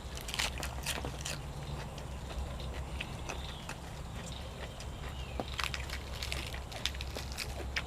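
Close-miked chewing of cuttlefish, with wet mouth smacks and short crunchy clicks scattered through, over a steady low hum.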